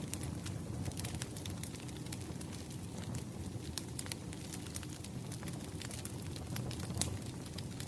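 Crackling wood fire: a steady low rumble of burning logs with irregular sharp pops and snaps.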